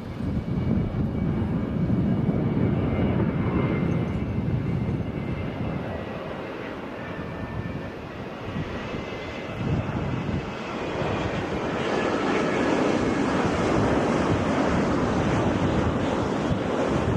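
Jet airliner engines on landing: a heavy rumble with a faint high whine, which dips in the middle and swells again, mixed with gusting wind on the microphone.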